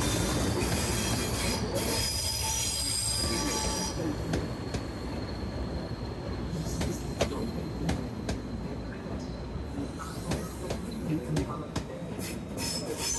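Train hauled by Class 40 and Class 45 diesel locomotives running slowly into a station. High-pitched wheel squeal for the first four seconds or so, then irregular sharp clicks of wheels over rail joints above a low rumble.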